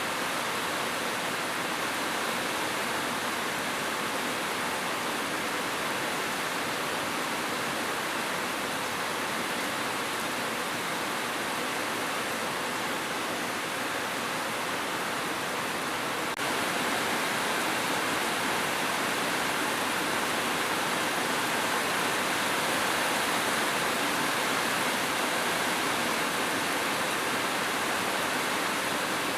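Steady rain falling, an even hiss with no single drops standing out. It gets slightly louder about halfway through.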